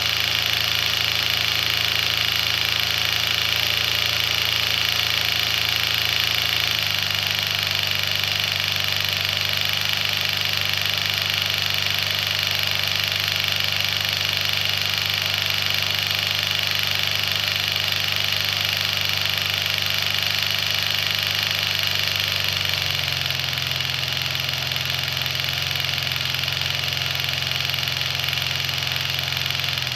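Ingersoll Rand inline-seven two-stroke diesel engine running steadily with a deep low note and a steady high whine. Its speed changes in a step about seven seconds in, and again near the end.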